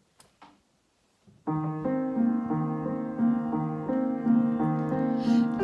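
A piano or electronic keyboard starts playing about a second and a half in: a steady, bouncy introduction to a children's song, with a repeating two-note bass under held chords. A few faint clicks come before it.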